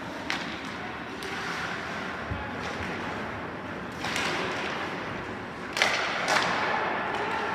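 Ice hockey play: sharp knocks of sticks on the puck and the puck hitting the rink boards, about five in all, the loudest two close together near the end, over a steady rink background.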